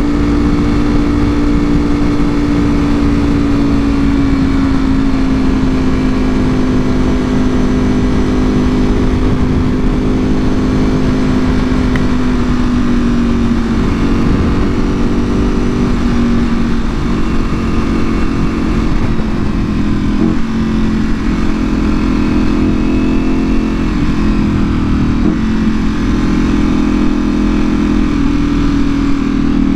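2024 Ducati Panigale V4R's V4 engine through an Akrapovic full exhaust, running at a steady cruise with its pitch slowly falling, and a few shifts in pitch in the last third. Steady wind rush on the microphone underneath.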